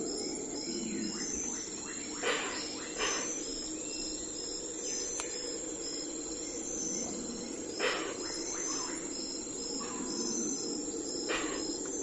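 Crickets chirping in a steady, regular pulse over a low, even background hum of outdoor morning ambience, with a few brief sharper sounds about 2, 3, 8 and 11 seconds in.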